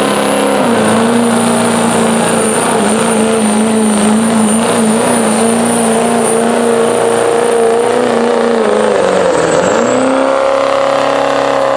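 2002 Chevrolet diesel pickup's 6.6 L Duramax V8 at full throttle, pulling a sled, held at high revs with a high, steady turbo whistle over it. Near the end the revs sag briefly, then climb back up.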